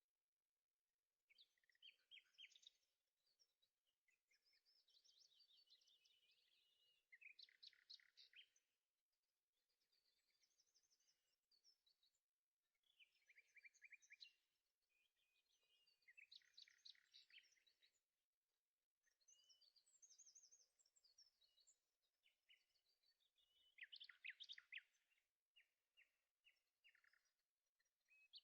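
Faint birdsong: phrases of quick chirps and trills recurring every few seconds.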